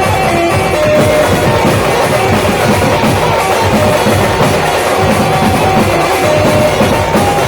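Loud live band music from a Maharashtrian street band, with a driving drum beat and short melodic lines over it.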